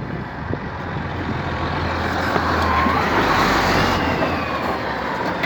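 Dump truck driving past. Its engine and tyre noise grows to a peak about three to four seconds in and then fades, with a whine that falls in pitch as it goes by.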